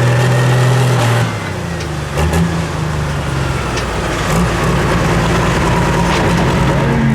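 Pro Stock pulling tractor's turbocharged diesel engine running hard, easing off about a second in, with a high whine that slowly falls in pitch afterwards.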